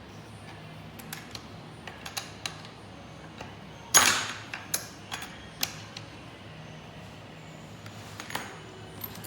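Scattered clicks and clinks of small metal parts and tools being handled during machine assembly, with one louder knock that rings on briefly about four seconds in.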